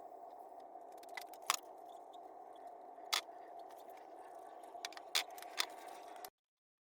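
A faint steady hum with a handful of sharp, light clicks and taps scattered through it, like small parts or tools being handled; the sound cuts off suddenly to silence near the end.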